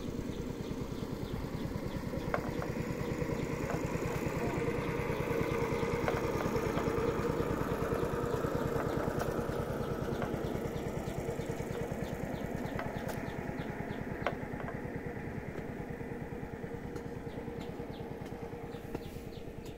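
A small engine running with a fast, even beat, growing louder to about seven seconds in and then slowly fading as it passes by. A few faint clicks sound over it.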